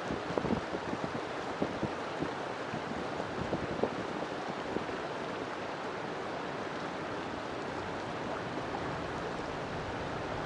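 River water flowing steadily, a continuous rushing with small splashes and gurgles scattered through it, most of them in the first few seconds.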